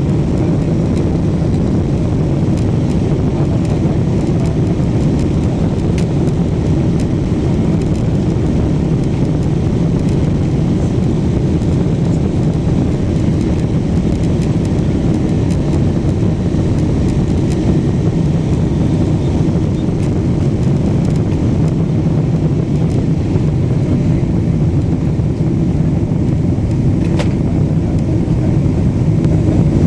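Steady low rumble inside the cabin of a Boeing 777-200, from its Pratt & Whitney PW4000 engines and the air rushing past the fuselage, holding an even level. A single short click near the end.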